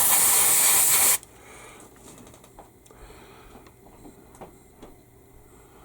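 Airbrush spraying with a loud, even hiss that cuts off about a second in, followed by faint scattered clicks and taps.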